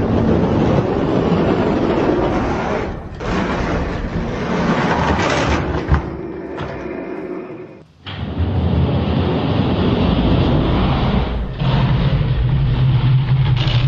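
Die-cast Hot Wheels monster trucks rolling fast down a toy race track, a loud steady rolling noise that dips briefly about three seconds in and cuts out for a moment near eight seconds before resuming.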